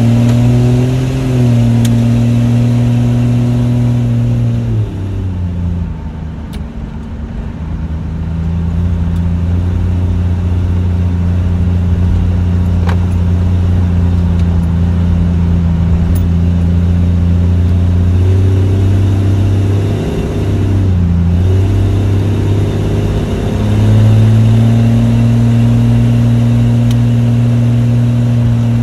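1994 Jeep Wrangler YJ engine running under way, heard from inside the cab: a steady drone that drops in pitch about five seconds in, holds steady, then wavers and climbs back to a higher steady note near the end.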